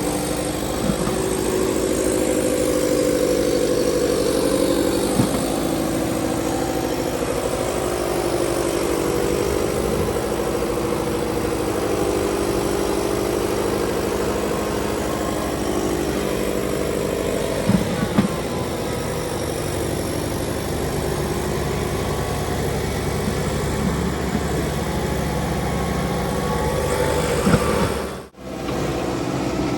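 Kubota 5501 tractor's four-cylinder diesel engine running steadily, its pitch wavering a little, with a momentary break in the sound near the end.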